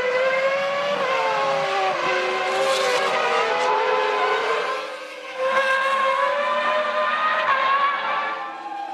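1998 Formula One car's V10 engine running at high revs. Its pitch falls about a second in as the car slows, then holds fairly steady. It drops away briefly around five seconds in and comes back.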